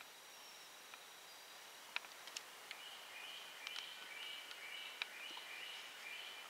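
Faint woodland ambience with a small bird singing: short high notes repeated several times a second from about halfway in. A few sharp clicks stand out, the loudest about two seconds in and another about five seconds in.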